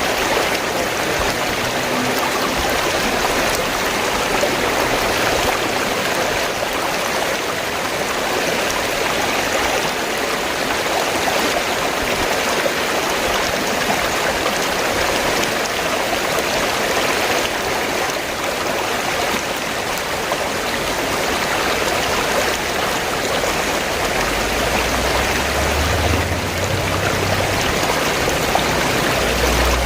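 River water flowing in a steady, even rush. A low rumble joins in during the last few seconds.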